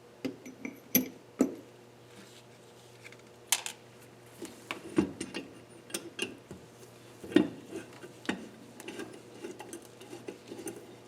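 Irregular metallic clicks and clinks of a hand tool and small steel parts while valve keepers are fitted back onto the valves of a cylinder head. The sharpest knocks come about a second in, around the middle, and at about seven and a half seconds.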